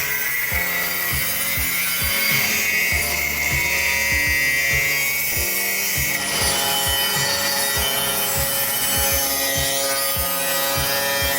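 Devon 900 W angle grinder at work, giving a steady rasping hiss as it grinds, under background music with a steady beat.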